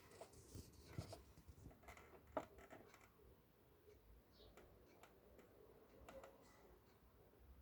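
Near silence, with faint scattered clicks and taps, the sharpest about two and a half seconds in.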